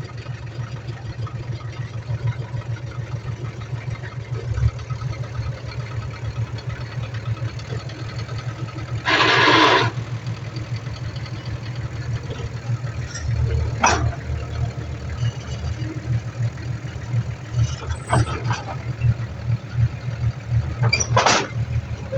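Heavy diesel engine of earthmoving machinery running with a steady, rapidly pulsing low throb. About halfway through comes a second-long burst of noise, and a few brief sharp noises follow in the second half.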